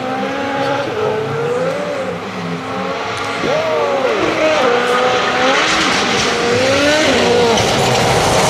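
Rally car engine at full throttle, its pitch climbing and dropping again and again as it shifts through the gears at speed. A rising rush of noise builds in the second half.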